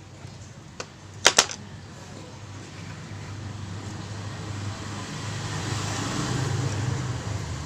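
Two sharp clicks about a second in, then a motor vehicle's engine hum that slowly grows louder and eases off near the end.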